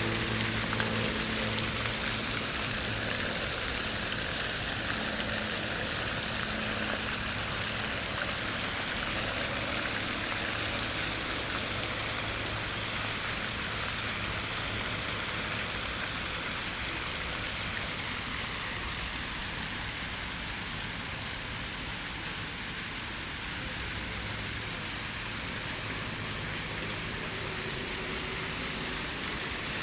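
Fountain water splashing and falling steadily: an even rush of water.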